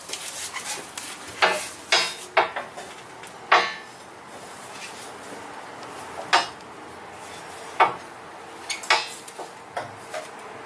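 A handful of sharp metallic clanks and knocks at irregular intervals as a steel coil spring is worked into place in the rear suspension of a Jeep Wrangler JK.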